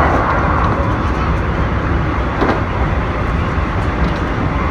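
Keikyu electric train running along the track, a steady rumble of wheels on rails heard from inside the passenger car.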